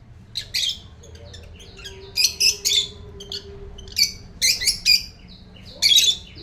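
African lovebirds calling: short, sharp, high-pitched chirps and squawks, often two or three in quick succession, repeated throughout.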